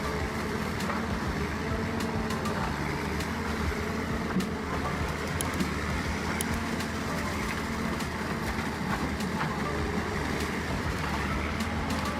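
Heavy wood shredder running steadily under its diesel engine, a constant low drone with a few faint sharp ticks of wood being broken up.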